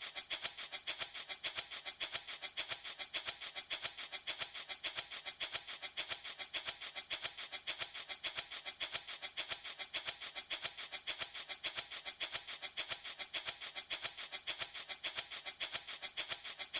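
Handmade baby rattle shaken steadily and evenly, about five bright rattling shakes a second.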